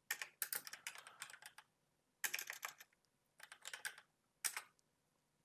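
Typing on a computer keyboard in four short bursts of keystrokes with brief pauses between them.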